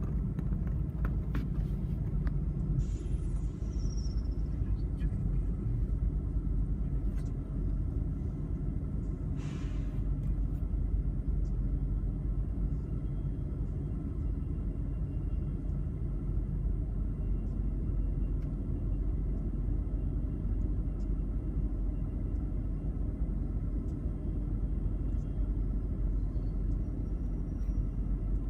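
Steady low rumble of a freight train rolling past, with a brief high chirp about three seconds in.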